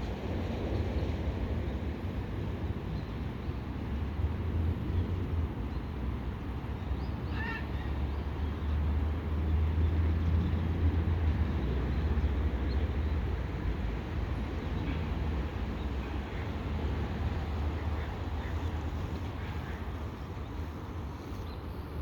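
Steady low rumble of a fishing boat's engine mixed with wind noise, swelling a little in the middle. A short, high bird call sounds once about seven and a half seconds in.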